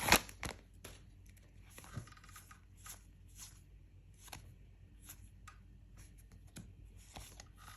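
Lorcana trading cards from a freshly opened foil booster pack being handled and leafed through, making soft scattered rustles and small card flicks. A brief crinkle of the foil pack comes right at the start.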